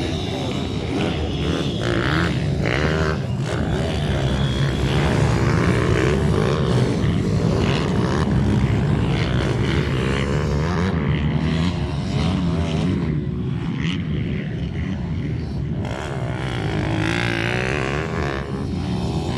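Several minibike engines racing together, their pitch rising and falling as the riders rev up and ease off.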